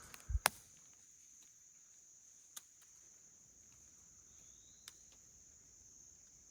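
Insects droning steadily at one high pitch, a chorus of crickets or cicadas. A footstep with a sharp snap comes about half a second in, and a couple of faint clicks follow later.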